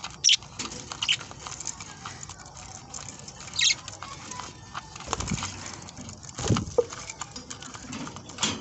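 A flock of budgerigars eating scattered seed: a steady patter of clicks and scrabbling from pecking and feet, brief sharp chirps, and a couple of louder bumps about five and six and a half seconds in.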